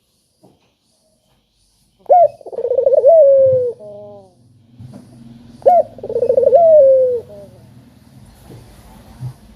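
A dove cooing twice, loud. Each call opens with a sharp rising note, rolls into a fast throaty trill and ends on a falling tail, about one and a half to two seconds each.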